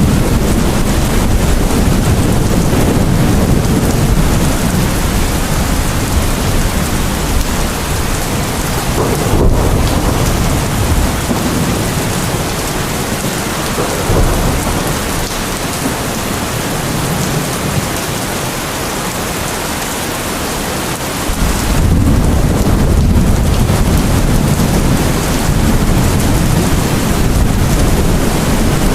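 Heavy rain falling steadily, with a deep rumble of thunder underneath that dies away in the middle and swells back up about two-thirds of the way through.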